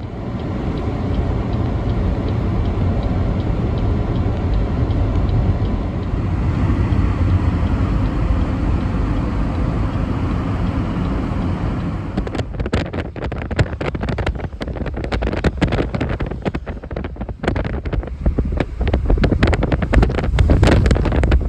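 Strong blizzard wind blowing across the microphone: a steady rush for about twelve seconds, then rapid, choppy buffeting from gusts for the rest.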